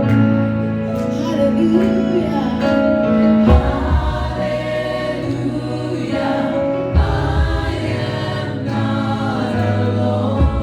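Gospel worship music with several voices singing together over a steady bass line.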